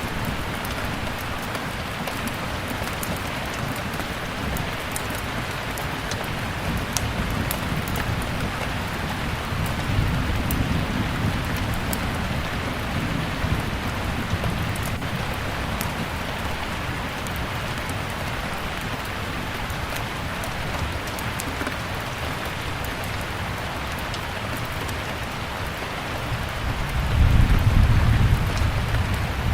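Steady rain with scattered sharp pops from a crackling fire. Low thunder rumbles roll in twice, the louder one near the end.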